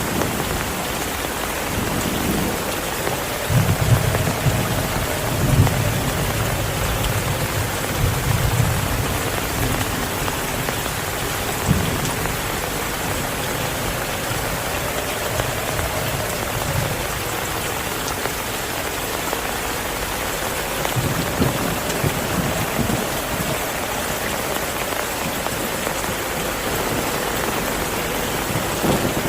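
Heavy rain falling steadily, with low rolls of thunder rumbling twice: a few seconds in and again past the middle.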